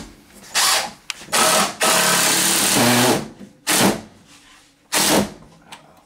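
Power drill driving three-inch screws into 2x4 wood blocking in several bursts: a short one, a longer run of about two seconds in the middle, then two short final bursts.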